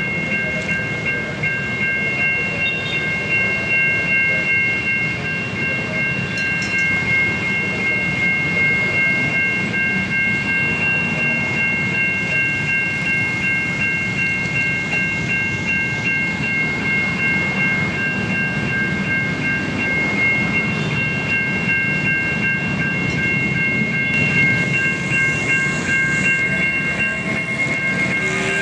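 A train passing a railway level crossing, its wheels rumbling and clattering over the rails, while the crossing's warning siren holds a steady high chord of several tones.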